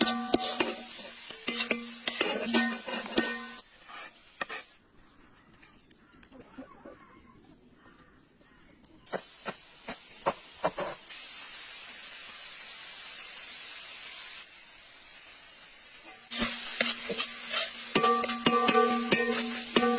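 Food sizzling in a pan while it is stirred, with a steady frying hiss and frequent clicks of a utensil against the pan. It comes in separate stretches, quieter in the middle, and a held musical tone sounds over the louder parts.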